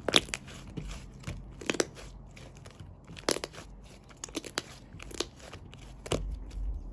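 Shaving foam being pressed and squeezed by hand, giving irregular short crunching crackles.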